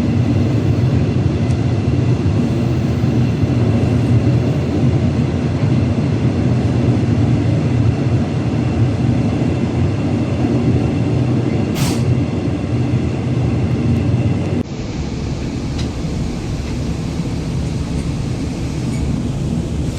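Train running, a steady heavy rumble, with a short high hiss about twelve seconds in. The sound changes abruptly about fifteen seconds in to a lighter, thinner rumble.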